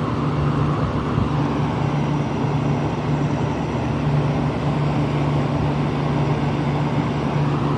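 Trane rooftop package air-conditioning unit running: a steady low hum under an even rush of fan and air noise.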